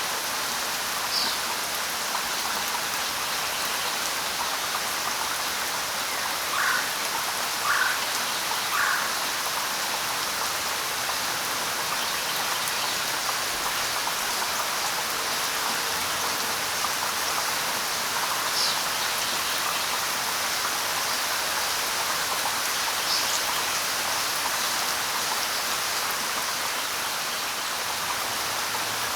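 Steady light rain falling on leaves and surfaces. A few short bird calls sound over it: three lower chirps about a second apart roughly a quarter of the way in, and single higher chirps near the start and later on.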